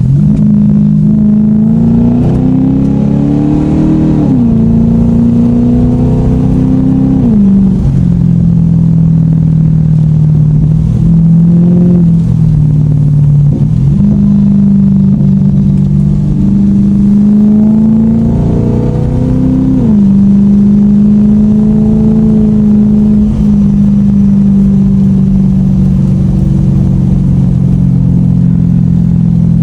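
Lexus car engine pulling hard, its pitch rising and then dropping suddenly at each upshift, several times over, before settling into a steady cruise note.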